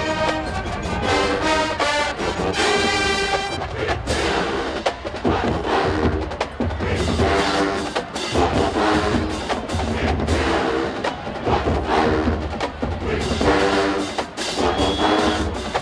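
Marching band playing: held brass chords for the first few seconds, then a run of sharp drum and percussion hits with short brass stabs.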